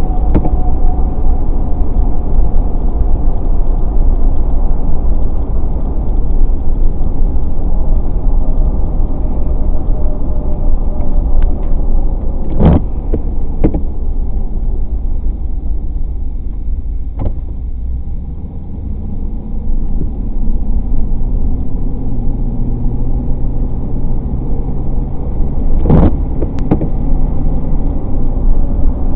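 Steady road and engine rumble of a car driving at road speed, with a few sharp knocks in the middle and near the end. The rumble eases briefly just past halfway, then a steady low hum comes in.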